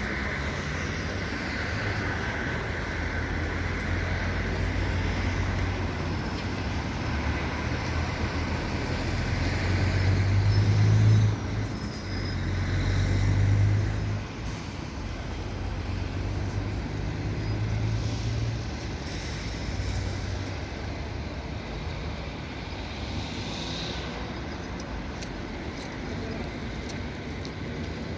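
Road traffic with heavy vehicles passing close by: a steady low rumble that swells to a loud pass about ten seconds in and another a few seconds later, then settles back.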